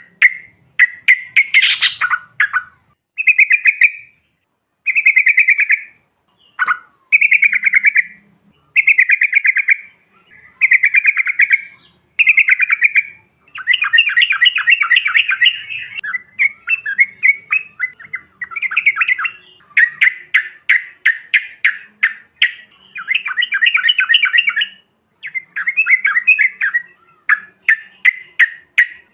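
Yellow-vented bulbul song: short bubbly phrases repeated every second or so. From about halfway through they run into longer, fast chattering trills.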